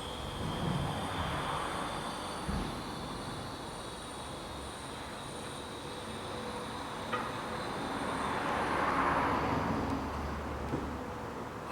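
Workshop room noise with a steady hiss and faint high hum, broken by a dull knock about two and a half seconds in and a short click about seven seconds in, as an engine is lowered on a crane into the car.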